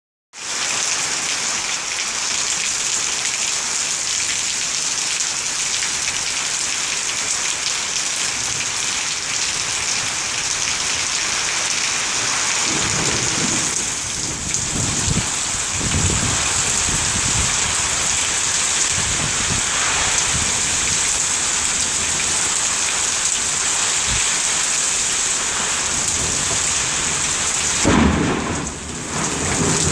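Heavy rain pouring steadily in an even hiss. Low thunder rumbles in about halfway through and again, louder, near the end.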